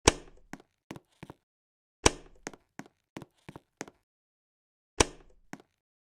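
Irregular sharp knocks: three loud ones with a short ringing tail, near the start, about two seconds in and about five seconds in, with lighter clicks between them.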